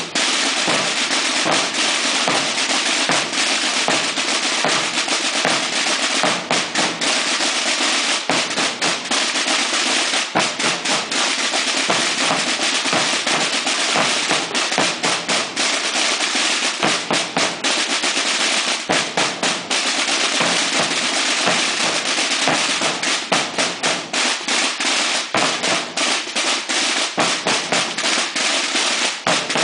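A corps of Semana Santa tambores (snare-type drums) playing together in continuous rapid rolls and strikes.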